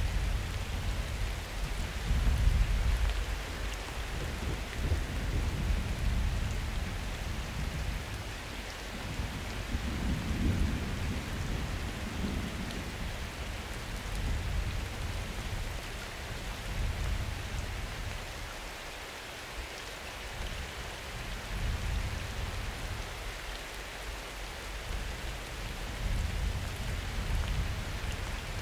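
Steady summer rain with low, rolling thunder, loudest in the first few seconds and swelling again around ten seconds in.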